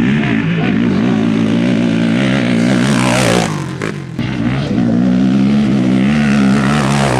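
Off-road race vehicle engines running steadily, with one passing close and loudest about three seconds in, and another coming up near the end.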